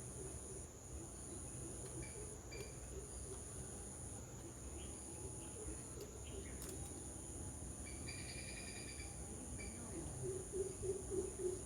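Steady high-pitched insect drone, with a few short bird chirps and a brief chattering trill a little past the middle. A low pulsing call starts near the end.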